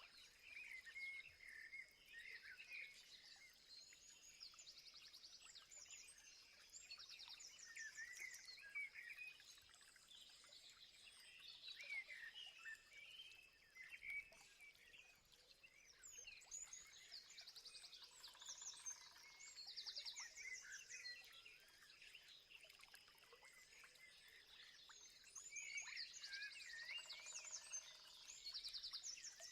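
Several wild birds calling and singing at once in a dense, overlapping mix of short chirps, whistled notes and quick trills, with a steady high-pitched tone running underneath.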